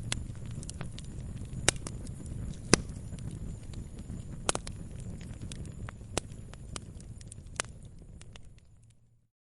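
Wood fire crackling, with sharp irregular pops, a few loud ones standing out, over a low rumble of burning. The sound fades out near the end and drops to silence.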